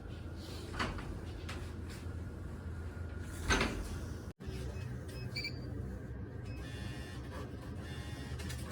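Steady low rumble of a car cabin on the move, with two brief knocks, the louder about three and a half seconds in. The sound drops out abruptly just after four seconds, and a few faint short high beeps follow.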